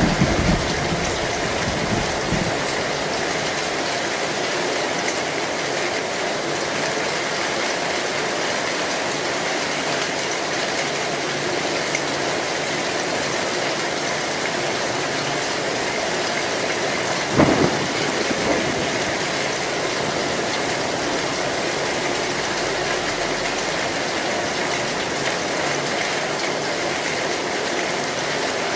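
Heavy rain falling steadily on an old corrugated zinc roof. A low rumble of thunder dies away in the first couple of seconds, and a single short, sharp crack of thunder comes about seventeen seconds in.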